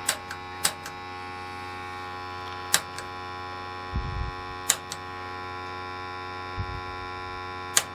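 Steady hum of many tones, broken by about five sharp clicks at uneven intervals, typical of a piezo igniter being pressed to relight a gas water heater's pilot. Two low thumps fall in between.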